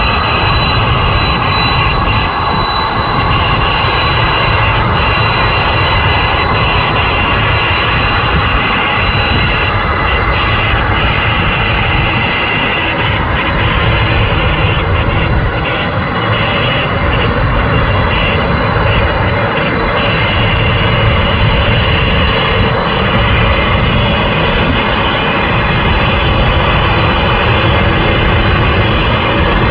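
Boeing 747 jet engines running, a loud steady roar carrying a high, even whine.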